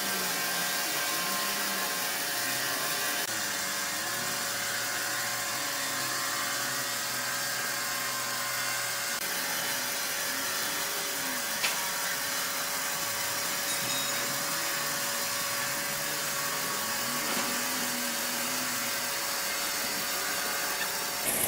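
Sawmill machinery running steadily, a continuous mechanical noise with a fixed hum and low wavering tones, and one sharp click near the middle.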